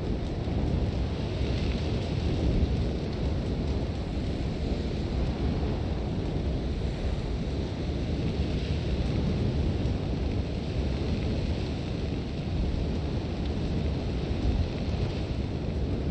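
Sandstorm: strong wind blowing with a deep rumble and a harsh hiss of blown sand, swelling and easing slightly.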